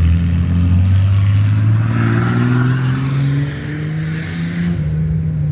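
Car engine revving hard as it accelerates, its pitch climbing steadily, with a loud rushing hiss from about two seconds in that cuts off suddenly near the end.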